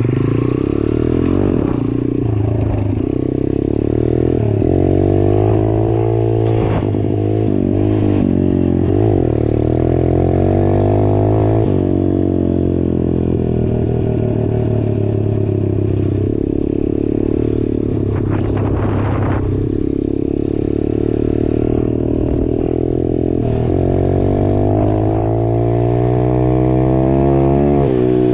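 A 150cc dirt bike engine running while the bike is ridden, its revs rising and falling with the throttle and gear changes. Occasional knocks and a brief scrape or rattle come from the bike over rough ground.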